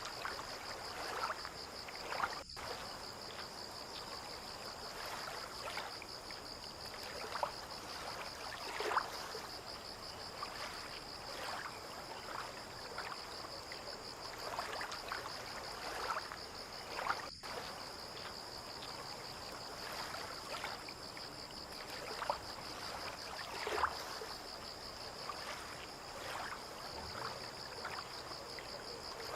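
Harbour water lapping and trickling, with small splashes every second or two, under a steady high insect trill.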